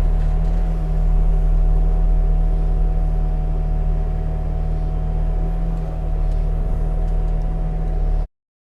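An engine running steadily at a constant speed, with a low hum and a thin steady whine over it. It stops abruptly near the end.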